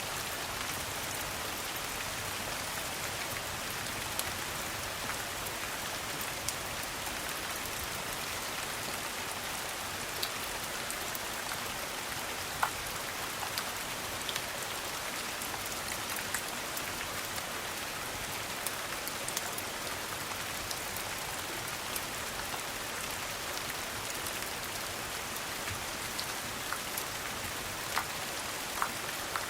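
Steady rain falling, with a few scattered sharp ticks through it.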